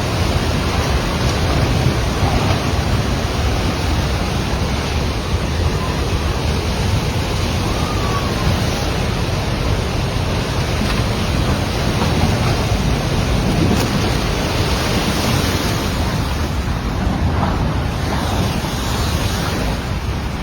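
The Bhote Koshi river in flood, its water rushing with a loud, steady noise that does not let up.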